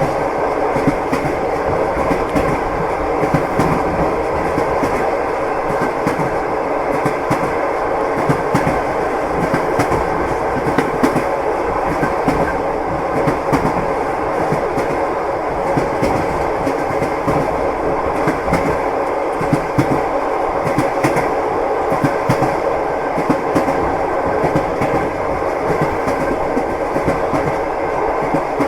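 Passenger train carriage rolling along at speed: a steady rumble of wheels on rails, with the clatter of wheels over the rail joints coming through as many short clicks.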